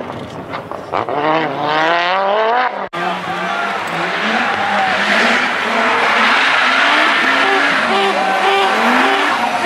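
Group B rally car engine accelerating hard, its pitch climbing steeply, then after a sudden break about three seconds in, an engine revving up and down over a dense rush of tyre and gravel noise.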